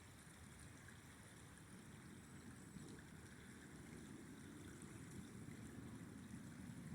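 Faint, low rushing of a flowing river, growing slowly a little louder.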